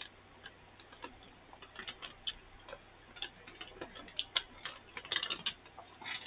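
Someone chewing crunchy chocolate-covered pretzel bites filled with peanut butter: irregular small crunches and mouth clicks, a denser cluster about five seconds in.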